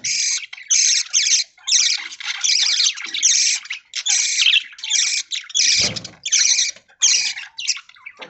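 A flock of budgerigars chattering and squawking in rapid, harsh, overlapping calls with short gaps between bursts. A brief low thud comes about six seconds in.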